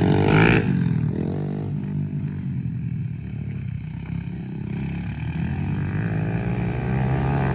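Small pit bike engine running with the throttle changing, its pitch wavering up and down. It eases off through the middle and builds up again near the end.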